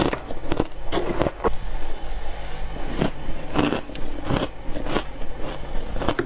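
Frost being bitten and chewed close to the microphone: irregular crisp crunches, about ten of them, bunched in the first second and a half and spread out after.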